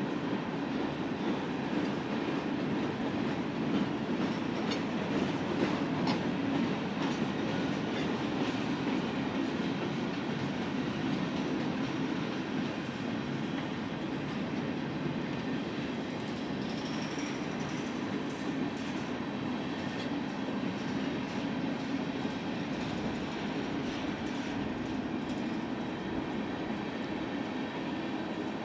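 Freight cars of a long manifest train rolling past on the rails: a steady rumble of steel wheels on track, with faint clicks.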